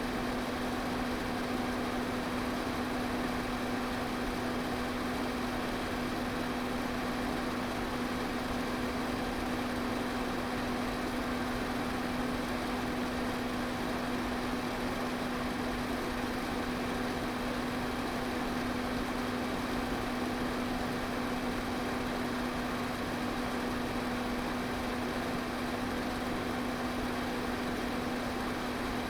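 Electric fan running steadily: an even rush of moving air with a steady low motor hum underneath.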